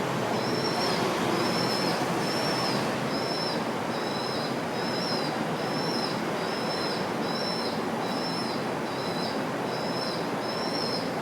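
A short, high two-tone chirp repeating at an even pace, about every 0.6 seconds, over a steady background hiss of street noise.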